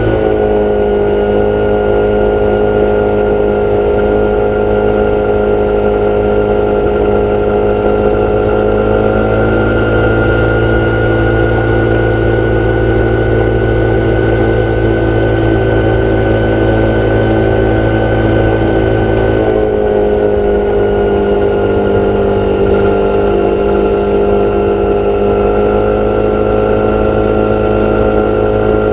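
An engine or motor running steadily and loudly, its pitch shifting slightly a couple of times.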